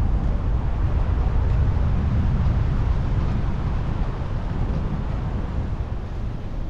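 Wind buffeting the microphone: a steady low rumble with no distinct tones.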